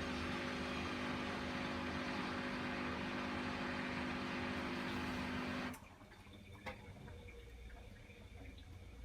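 Bosch front-loading washing machine on its spin cycle: a steady motor whine with a hum that cuts off suddenly a little over halfway through. A quieter background is left, with a single click about a second later.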